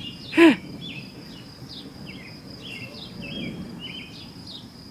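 A distant, constant low roar that seems to come from the whole sky, thunder-like but unbroken. Over it a steady high insect drone and scattered bird chirps, with one brief, louder, falling call about half a second in.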